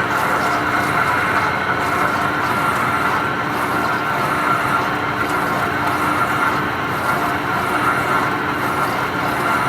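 Lathe running steadily while turning a large part, a continuous machine hum with a steady high whine over it.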